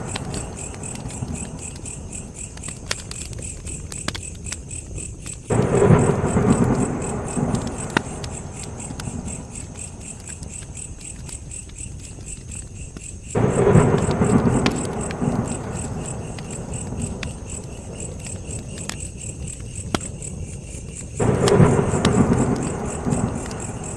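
Crackling campfire with a steady chorus of crickets chirping, broken three times, about eight seconds apart, by a sudden low rumble that fades over a few seconds.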